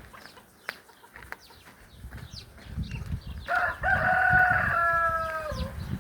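A rooster crowing once, one call of about two seconds that dips in pitch at its end, with faint short chirps before it.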